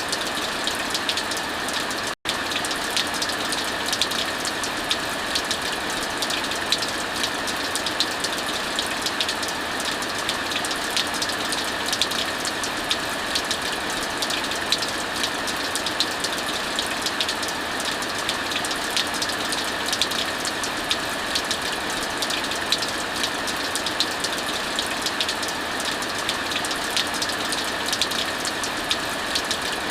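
Steady heavy rainfall blended with the continual crackle and snap of a wood fire. The sound cuts out for an instant about two seconds in.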